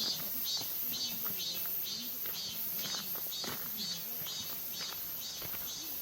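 Insects chirping in an even rhythm, about two pulses a second, with a high hissing pulse alongside each chirp.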